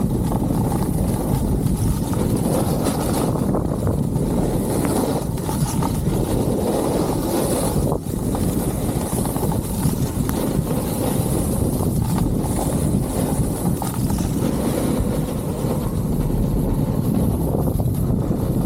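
Loud, steady wind rumble buffeting the microphone of a camera carried by a rider descending a ski slope through a snowstorm.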